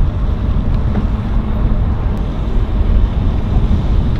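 Wind buffeting the microphone with a low, uneven rumble, and a motor running steadily underneath.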